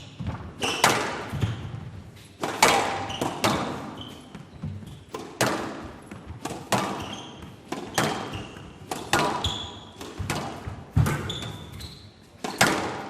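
Squash rally: the rubber ball cracking off rackets and slapping the front and side walls about once a second, each hit echoing in the arena. Short high squeaks sound between some of the hits.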